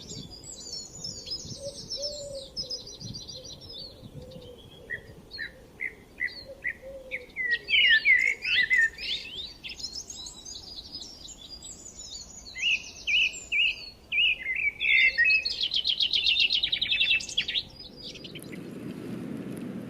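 Songbirds chirping and singing together: overlapping short chirps, whistled glides and rapid trills. A little before the end the birdsong stops and a low, steady noise begins.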